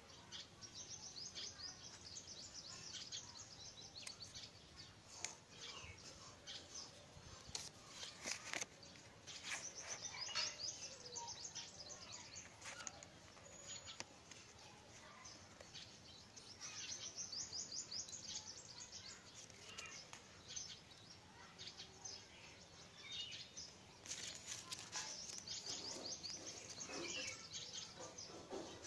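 Birds chirping in several runs of quick high notes, with a few sharp clicks and knocks in between.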